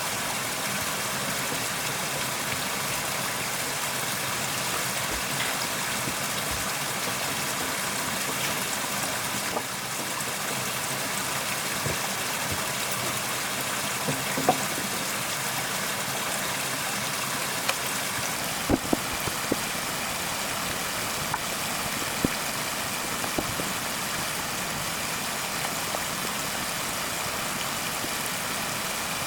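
Steady rushing hiss of flowing water, with scattered sharp clicks and knocks, a few louder ones past the middle.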